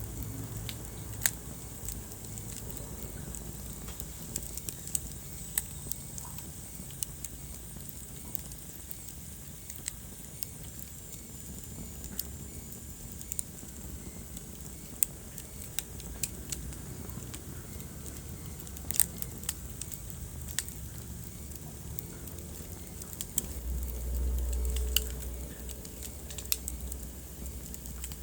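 Wood fire crackling in a fireplace: irregular sharp pops and snaps over a low steady rumble of the flames. A little before the end a deeper rumble swells for about two seconds.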